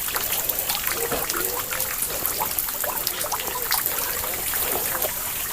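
River water running and trickling steadily, with many small drips and splashes.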